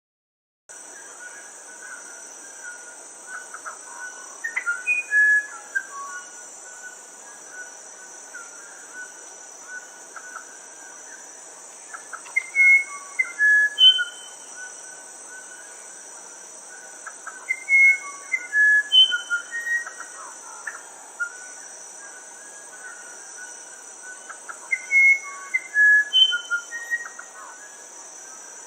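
Musician wren (uirapuru) singing: four phrases of clear, flute-like whistled notes at varying pitches, mixed with quick clicking notes. A steady high insect drone runs underneath.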